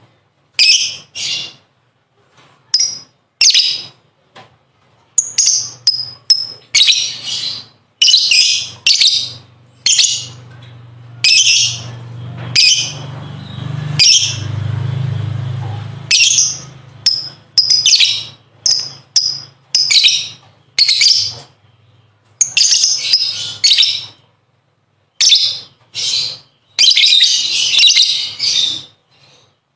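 Lovebird singing its 'ngekek' song: repeated high, harsh chattering bursts, mostly short, with a longer unbroken run near the end. A low steady hum sits underneath through the middle.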